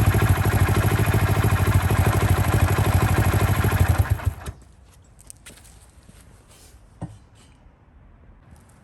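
Honda Little Cub AA01's small single-cylinder four-stroke engine running with a fast, even pulsing beat, then shut off about four seconds in, after which a few faint clicks and ticks are heard.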